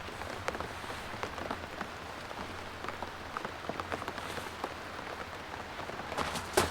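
Steady rain falling, with scattered individual drops ticking close by and a sharper knock near the end.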